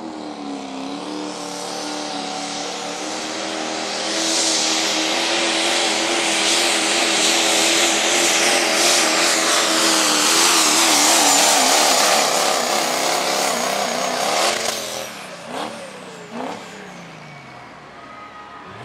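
Turbo diesel pulling truck of the 3.6 class running flat out under load as it drags the sled, the engine climbing quickly in pitch and then held high and loud for about fourteen seconds. Near the end the throttle comes off and the engine falls away, with a couple of short falling revs as the run ends.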